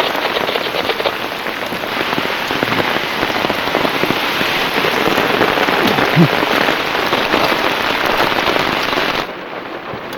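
Heavy rain pouring down, a dense steady hiss of falling and splashing drops. Near the end it drops abruptly to a quieter, muffled patter.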